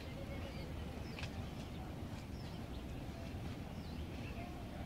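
Birds chirping, short scattered calls over a steady low rumble of outdoor background noise.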